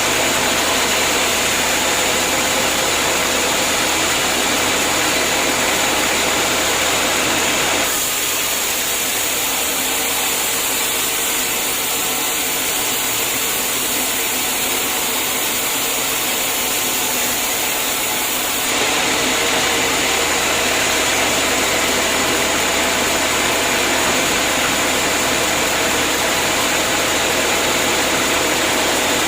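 Homemade band sawmill running steadily. Its sound changes abruptly about eight seconds in and changes back about eleven seconds later.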